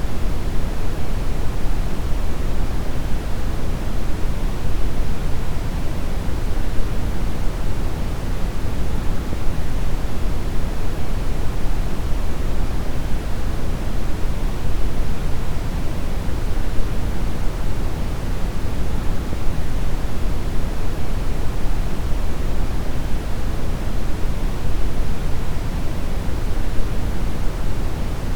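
Steady deep brown noise: an even, unchanging rushing hiss weighted heavily toward the low end, with no tones or events.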